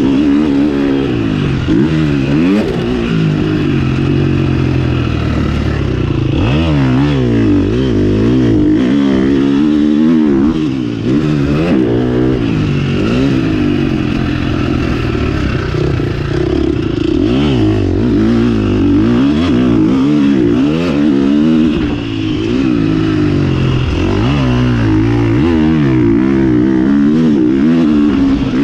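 A KTM 350 SX-F's single-cylinder four-stroke motocross engine being ridden hard, revving up and dropping off again and again as the throttle opens and closes and it shifts gears.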